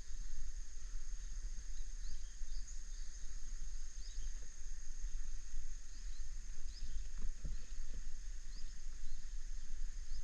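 Outdoor ambience: a steady high insect drone with scattered short bird chirps, over a low rumble that rises and falls.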